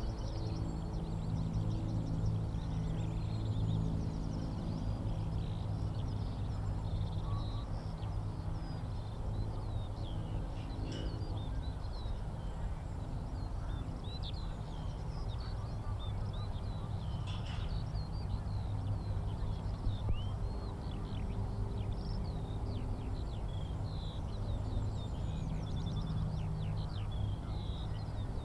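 Skylarks singing, a near-continuous run of high chirps and trills, over a steady low mechanical drone.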